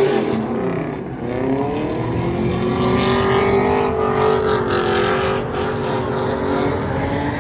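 A car engine revving up and holding at high revs for several seconds, its pitch wavering slightly.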